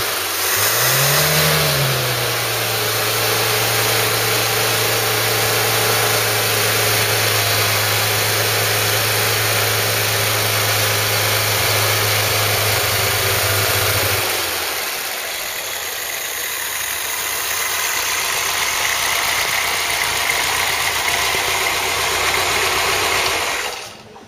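Freshly rebuilt Ford 2.0 Pinto single-overhead-cam four-cylinder engine, on a test run from cold, blipped once about a second in: its note rises and falls back. It then settles to a steady idle. After about 14 seconds the low engine note drops away, leaving a steadier, higher running noise.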